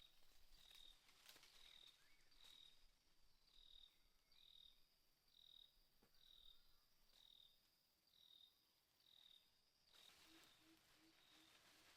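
Faint insect chirping: a short, high chirp at one steady pitch, repeated about one and a half times a second, with a few faint clicks. The chirping stops abruptly about ten seconds in.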